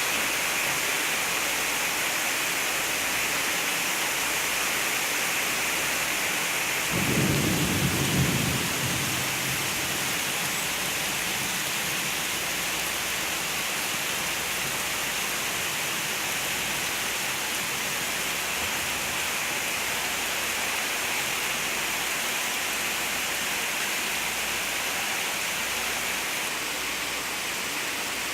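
Steady rain pouring down with a constant hiss. About seven seconds in comes a short low rumble of thunder, lasting a second or two.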